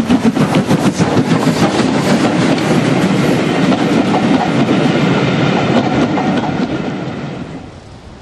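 A train running past close by, its wheels clattering rhythmically over the rail joints, the sound dying away near the end as it moves off.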